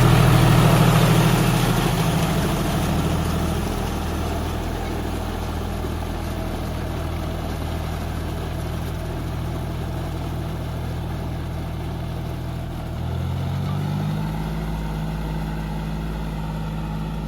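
Tractor engine running steadily, loudest in the first two seconds and then settling to a lower, even level. About 13 seconds in, its pitch rises as the engine speeds up.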